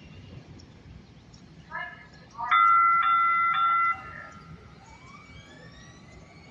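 Light rail train's horn: a short toot, then a loud blast of about a second and a half. It is followed by the rising whine of the train's electric traction motors as it accelerates away.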